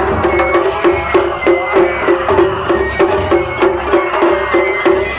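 Japanese festival music (matsuri-bayashi) with percussion and a high held melody over it. It keeps a steady beat of about three pulses a second.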